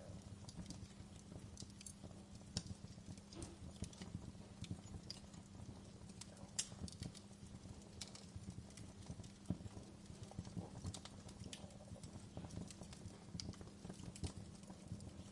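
Wood fire crackling in a stone fireplace: irregular small pops and snaps over a low steady rumble, with a few sharper pops standing out.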